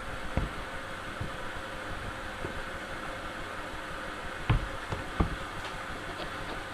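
Washing machine, its worn drum bearings just replaced, running at the start of a quick wash cycle with a steady buzzing hum. A few dull knocks come about four and a half to five seconds in.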